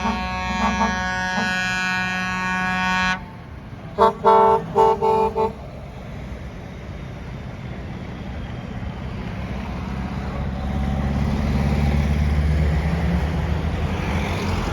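A sustained chord of steady tones cuts off about three seconds in, followed by four or five short, loud horn toots. Then a truck engine runs, growing louder over several seconds.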